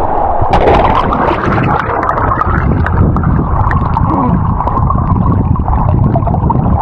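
Fast river water rushing and gurgling close to the microphone, with scattered small clicks and knocks.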